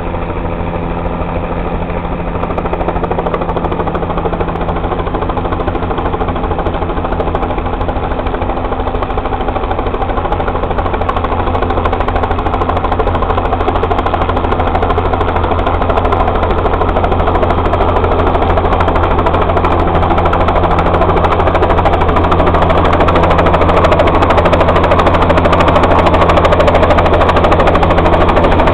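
Air ambulance helicopter's rotor beating in a fast, even rhythm over a steady engine drone, growing steadily louder as it approaches the landing zone.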